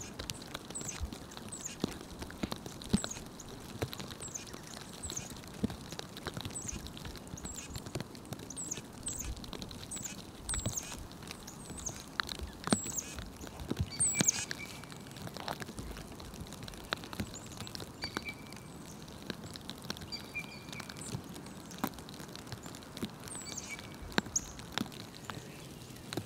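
High, thin calls of small songbirds, many brief chirps each falling in pitch, over scattered light pattering ticks.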